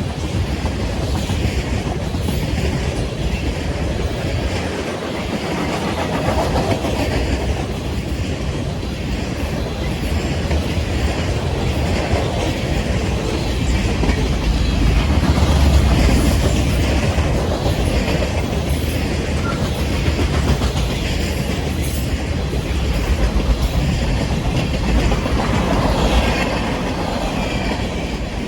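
A train's cars rolling past, a steady heavy rumble with the wheels clacking over rail joints.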